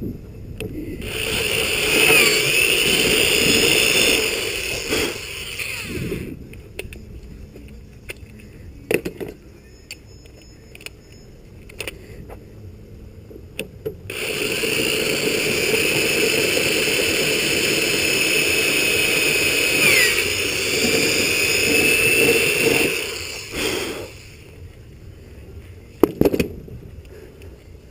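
Motor vehicles running nearby with a high whine, loud for about five seconds from a second in and again for about nine seconds from the middle.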